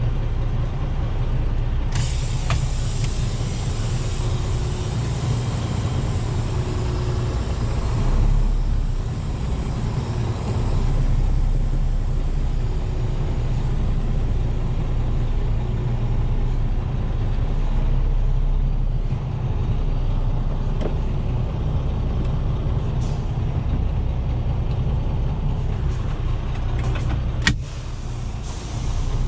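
Diesel engine of a grain semi truck running steadily, a low rumble as the truck is moved to weigh its back half on the scale. A sudden noise comes in about two seconds in, and there is a sharp click near the end.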